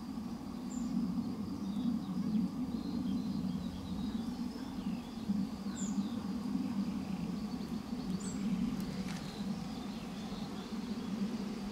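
Small birds chirping a few times, short high calls, over a steady low background hum.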